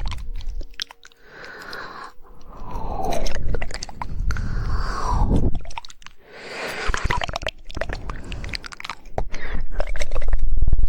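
Wet mouth sounds very close to the microphone: rapid tongue clicking and smacking in clusters, rising and falling in swells a couple of seconds long.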